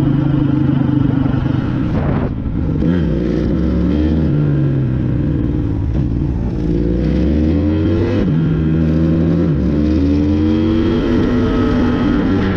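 Dirt bike engine running hard, its pitch climbing and dropping back again and again as the rider accelerates and shifts, with a short dip about two seconds in.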